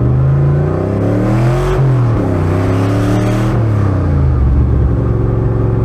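Car engine revving up twice, its pitch climbing then dropping back, before settling to a steady low-pitched run.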